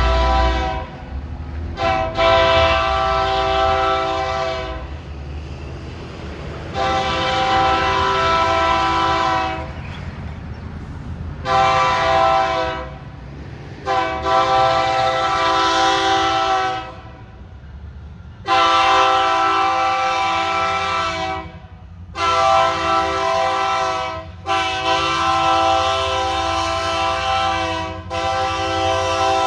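Diesel locomotive's multi-note air horn sounding a series of about eight blasts, long and short, with brief gaps between them, over the low rumble of the train.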